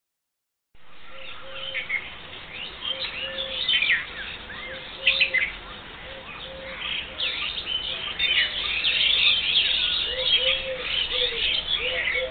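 Dawn-chorus-like mix of many village birds chirping and trilling over one another, with a lower repeated call underneath; it starts after a brief silence under a second in.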